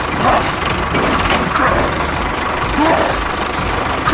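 The small motor of a DIY mini tractor running steadily, with a few short faint vocal sounds over it.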